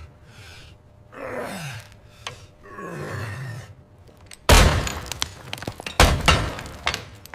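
Three drawn-out groans, each falling in pitch, then two heavy crashing thuds with rattle about four and a half and six seconds in, the second thud the loudest.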